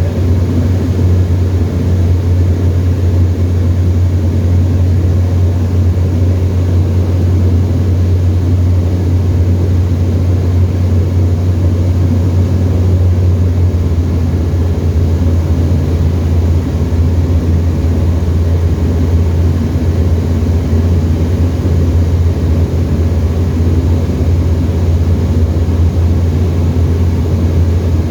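Engine and propeller of a Tecnam ultralight aeroplane running steadily in flight, a loud, even low drone heard from inside the cockpit.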